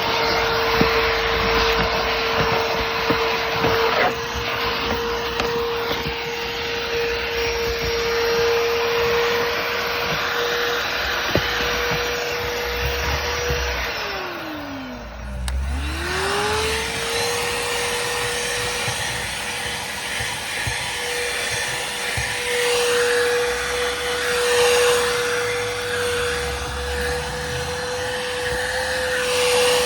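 Stihl SEA 20 cordless handheld vacuum running with a steady high whine and a rush of suction. About halfway through it winds down and stops, then starts again and spins back up to full speed.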